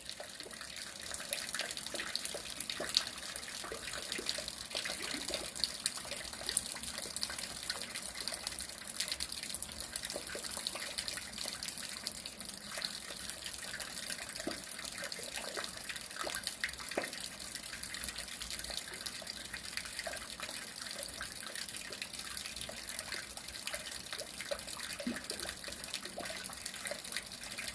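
Steady rain falling, a continuous hiss dotted with many individual drops and drips striking close by.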